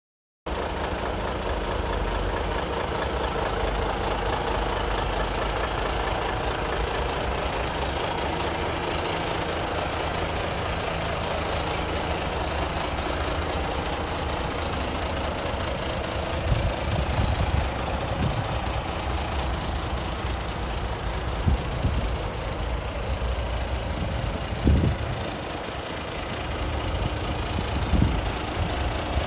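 Volvo FH500 truck's 13-litre six-cylinder diesel engine idling steadily, with a few short low thumps in the second half.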